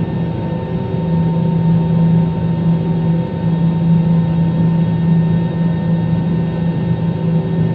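Steady drone of a passenger airplane's engines heard inside the cabin, a constant low hum with a few steady higher tones over a rushing noise.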